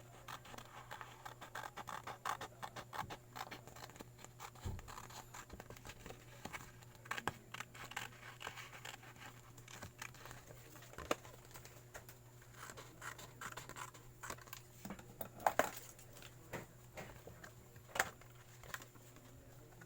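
Gasket material being worked by hand: irregular scratching and small clicks, with a dull thud about five seconds in and a couple of sharper clicks near the end.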